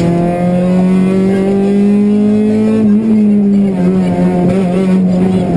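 Honda Civic Type-R rally car's four-cylinder engine under load, heard from inside the cabin. The revs climb steadily for about three seconds, then drop back and hold steady.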